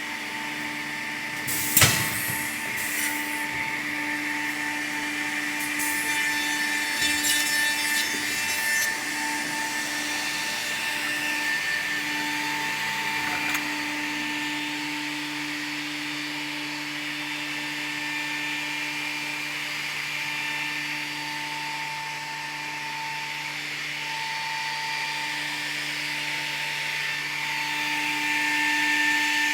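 Holz-Her Sprint 1310 edgebanding machine running: a steady motor hum with several held tones. There is a sharp knock about two seconds in, and a rougher, rasping stretch from about six to nine seconds.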